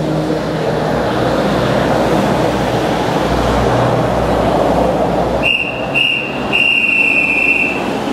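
JR Central 373 series electric train moving through the station, its running noise building. About five seconds in, a high, steady tone sounds three times: two short and one longer.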